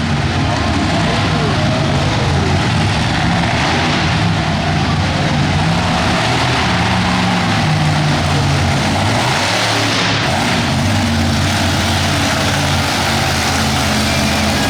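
A monster truck's engine running loud, its pitch drifting up and down as the throttle is worked.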